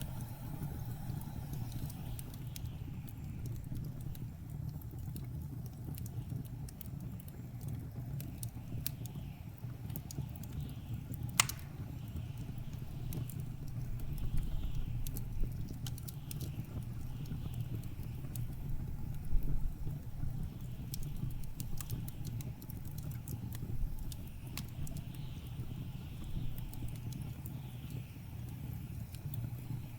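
Wood fire crackling in a fireplace, with scattered small pops and one sharper pop about a third of the way in, over a steady low blizzard wind rumble.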